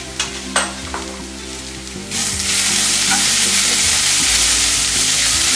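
Wilted chopped spinach, onion and garlic sizzling in a nonstick kadai while a wooden spatula stirs them. A few light knocks come in the first second, then a loud, steady sizzle sets in about two seconds in and holds.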